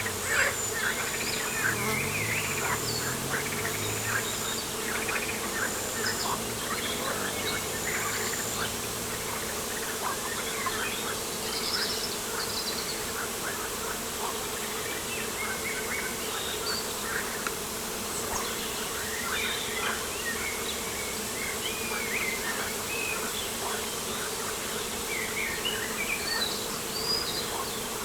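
Flying insects buzzing steadily, with many short bird chirps and calls scattered over the hum. A low, evenly patterned call sounds in the first nine seconds or so.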